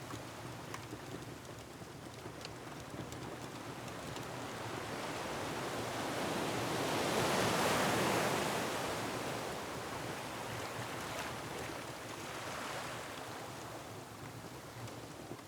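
Ocean surf with a wave that swells, breaks about halfway through and washes back over a steady rush of water. Faint crackles of a wood fire come through now and then.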